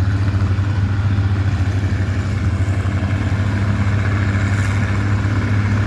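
Antique farm tractor engine running steadily, a constant low throb with fast even pulsing.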